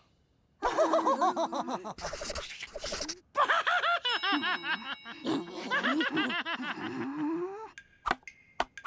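Cartoon monster characters laughing and snickering in wordless voices, in quick rising-and-falling bursts, with short pauses between.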